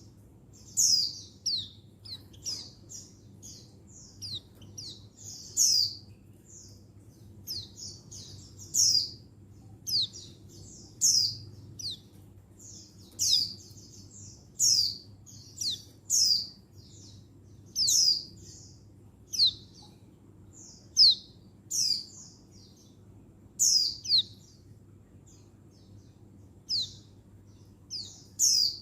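A female white-eye (pleci buxtoni) calling for a male: short, high chirps that sweep downward, one every second or two. A faint low hum runs underneath.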